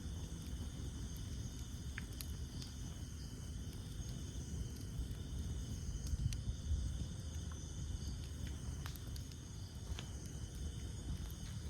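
Campfire of burning wood crackling, with a few scattered sharp pops over a low, steady rumble of flame. A steady high chorus of insects runs underneath.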